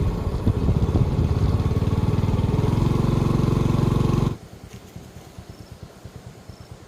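An engine running steadily, which cuts abruptly about four seconds in to a much quieter low pulsing.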